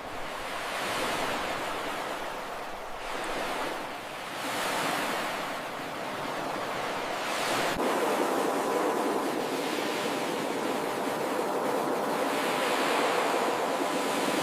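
Ocean surf: waves breaking and washing in, swelling and easing every two seconds or so, then a steadier, louder wash after a brief click about eight seconds in.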